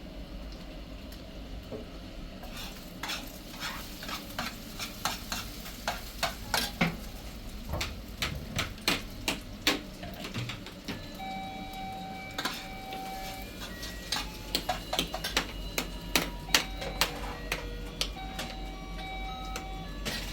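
Rapid, irregular clicking and clinking. About halfway in, a simple electronic tune of short held notes starts alongside it.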